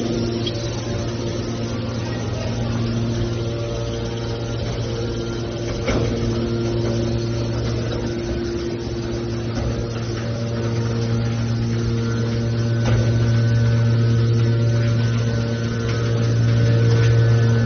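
Steel drum baler's hydraulic power unit running with a steady low hum, growing a little louder toward the end, with a couple of faint knocks.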